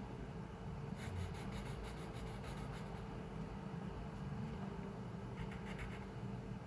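Drawing strokes on paper: a run of quick, scratchy strokes about a second in lasting some two seconds, then a shorter run near the end, over a steady low room hum.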